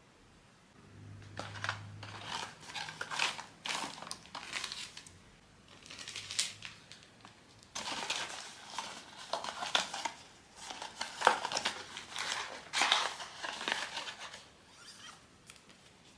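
Blind box packaging being handled and opened: plastic wrapping crinkling and cardboard rustling in irregular bursts, with a pause about a third of the way through.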